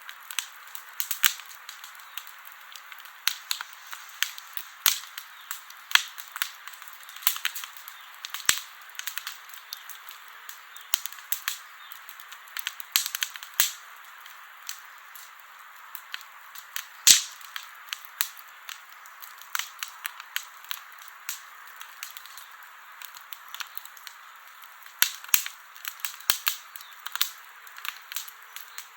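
Wood campfire crackling: a steady hiss with many irregular sharp pops and snaps, one louder pop a little past halfway.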